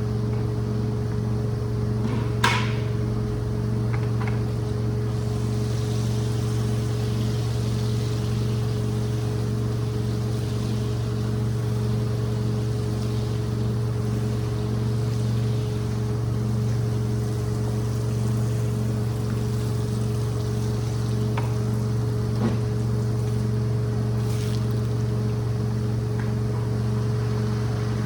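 Steady hum of a rug-cleaning machine's motor with a hiss of water and air flow, and a sharp click about two and a half seconds in.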